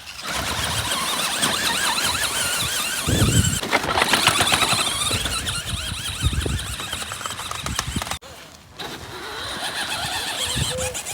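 Toy Spider-Man monster truck driving, its motor giving a high, quickly wavering squeal, with a few low thumps.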